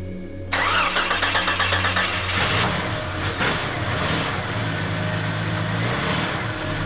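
A vehicle engine starting about half a second in, with a couple of seconds of fast, even pulsing as it cranks and catches, then running steadily.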